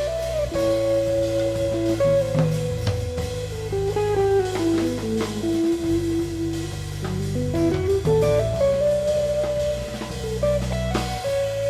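Trio of guitar, cello and drum kit playing a slow melody in long held notes that slide from one pitch to the next, over sustained low notes and drums.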